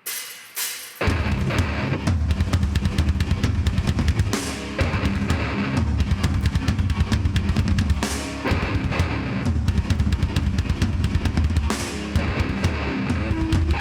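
Live heavy band starting a song: two loud drum hits, then about a second in the full band comes in with fast, dense drumming, heavy bass drum and cymbals over distorted guitars.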